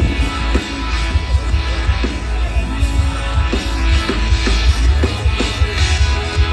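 Rock music with guitar and a strong, steady bass line, played loud.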